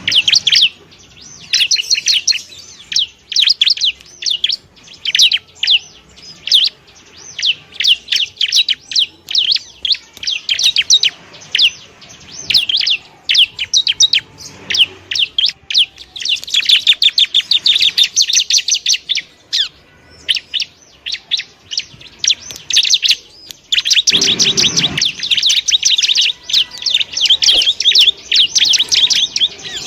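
Bar-winged prinia (ciblek) singing: long runs of rapid, sharp, high chirping notes in bursts of a few seconds separated by short pauses.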